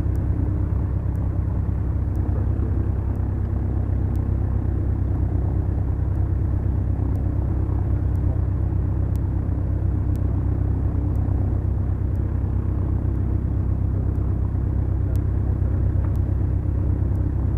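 Twin piston engines of a Beechcraft Duchess, two four-cylinder Lycomings, running at a steady power setting, a constant low drone with no change in pitch.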